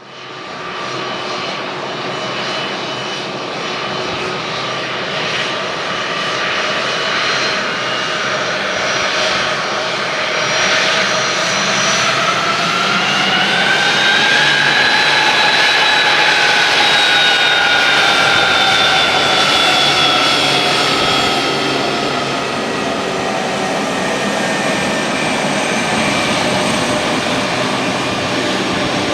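Jet engines of a Boeing 757-24APF freighter running with a steady whine over a rushing noise. The whine rises in pitch about halfway through, then slowly sinks back.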